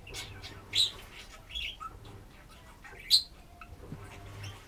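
Pet budgerigar chattering and warbling in short high chirps, with two sharp loud chirps, one about a second in and one about three seconds in. A faint steady low hum runs underneath.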